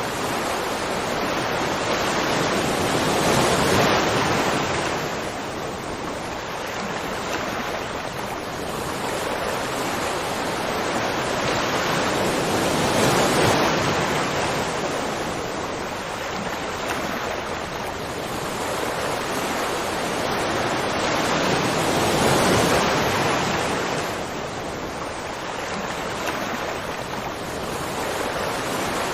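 Rushing water: a dense, steady roar that swells and eases about every nine seconds.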